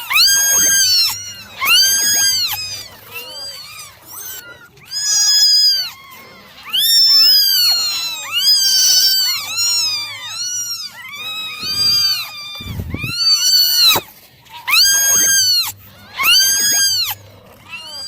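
Several kittens meowing loudly and insistently, high-pitched calls rising and falling in pitch, overlapping one another in quick succession.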